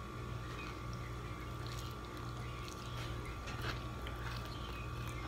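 Faint chewing and mouth sounds of someone eating a tuna sandwich, with a scatter of soft little clicks, over a steady low hum.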